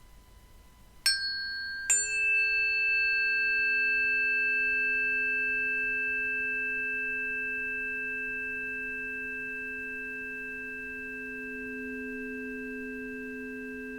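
Two bell-like metal instruments struck a little under a second apart, each ringing on in clear, steady tones, one high and one low, that slowly fade.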